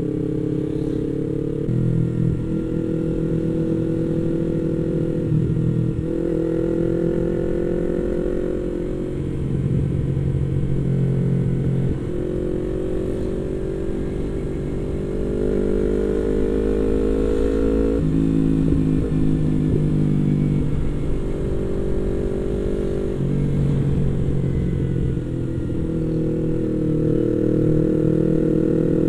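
Yamaha MT-25 parallel-twin engine running under way, heard from the rider's seat. Its pitch holds, climbs and drops several times as the throttle is worked and gears are changed.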